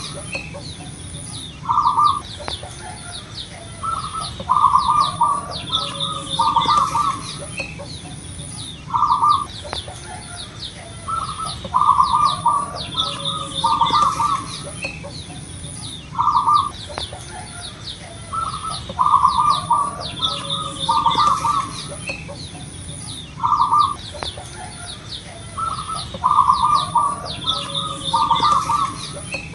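Zebra dove (perkutut) cooing over and over, its short phrases of a few quick coo notes coming every two or three seconds. Thin high chirps from small birds run along with it.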